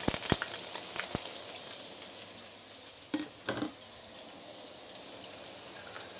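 Minced garlic, ginger, onion and coriander root sizzling in hot oil in a non-stick wok, a steady hiss at the start of a sauté. A few sharp clicks in the first second as the last of it is scraped off a spatula, and two light knocks about halfway.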